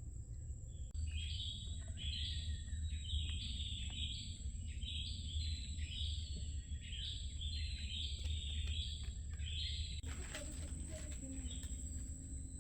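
A bird calling in a fast, repeated series of short high chirps, starting about a second in and stopping about ten seconds in. A steady thin high-pitched tone and a low rumble of background noise run underneath.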